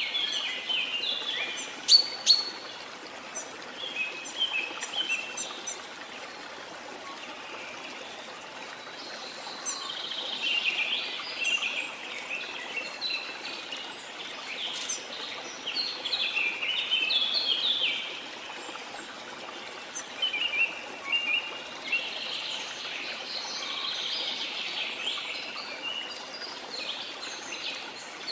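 Birds chirping and calling in bursts over the steady rush of a waterfall, with two sharp, loud notes about two seconds in.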